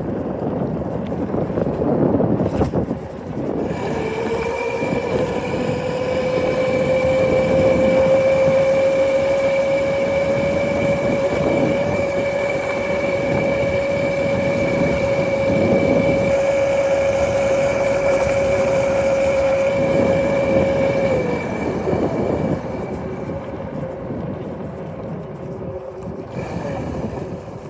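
Motorcycle under way, a high whine rising slightly as it picks up speed about four seconds in, holding steady, then dropping away around twenty seconds in, over rough wind rush.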